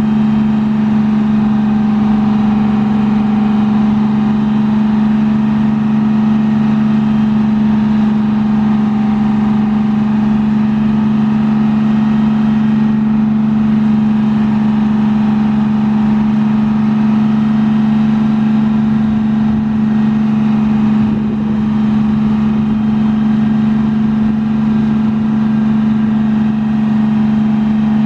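The Detroit Diesel 6V92TA two-stroke V6 diesel of a 1982 MCI MC-9 coach, running at a constant speed with a steady, unchanging drone.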